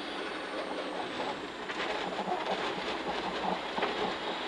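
Rally car at speed on a winter stage, heard from inside the cabin: a steady rush of tyre and road noise with scattered small knocks and rattles.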